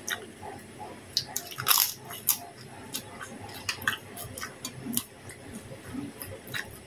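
Chewing a mouthful of rice, chicken and krupuk crackers, with scattered crisp crunches and clicks, the loudest a burst of crunching about two seconds in.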